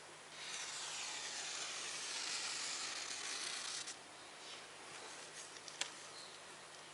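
Spatula scraping grout into the joints of a fireplace: a faint, even scraping hiss for about four seconds, then softer rubbing with a couple of light clicks.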